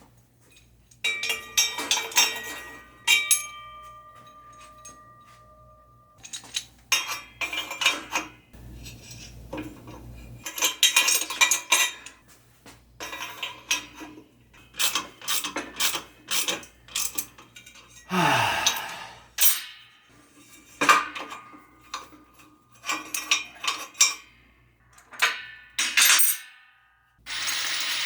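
Steel hand tools and puller parts clinking and clattering in a run of irregular sharp knocks, with a brief ringing tone early on: a small gear puller being handled and fitted.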